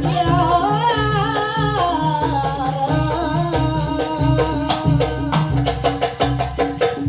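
Live jaranan music: a wavering, ornamented sung melody over a steady drum-and-gong rhythm.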